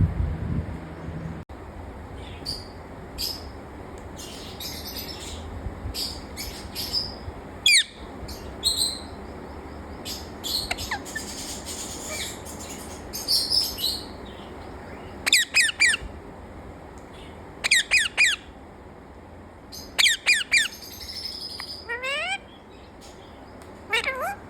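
A pet parrot chirping, squawking and whistling: bursts of short, high calls, then from about halfway through several quick runs of falling whistles.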